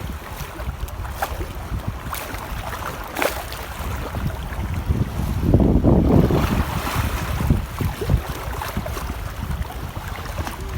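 Wind buffeting the microphone over splashing and sloshing shallow sea water, with scattered short splashes and a louder stretch of sloshing about halfway through.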